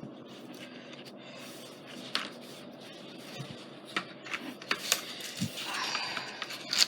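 Light clicks and knocks of a scoring board and craft supplies being handled on a table, then a rustle near the end as its plastic packaging cover is taken off.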